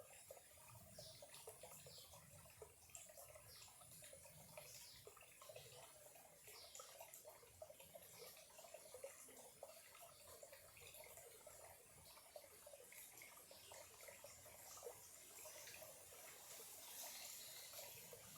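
Faint trickling and bubbling of a small, clear-water stream, steady throughout.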